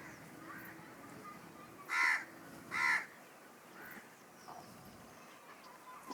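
A peacock giving two loud calls about a second apart, with fainter bird chirps in the background.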